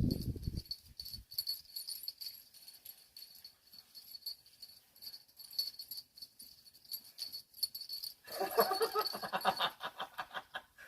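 A small bell or metal tags on a dog's collar jingle in a rough walking rhythm. About eight seconds in comes a loud call of a second and a half, rapidly pulsing.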